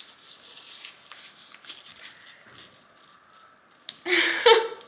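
A dog raincoat being fastened around the dog's belly: faint fabric rustling and small clicks, then a short loud rasping burst about four seconds in.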